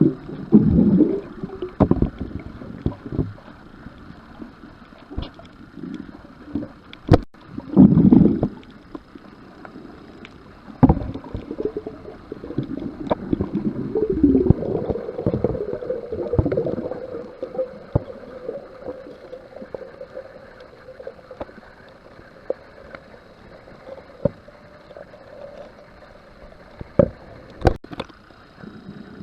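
Water sloshing and slapping around a small boat, with uneven knocks and thumps against the hull and a couple of sharp clicks. A steady hum runs for several seconds in the middle.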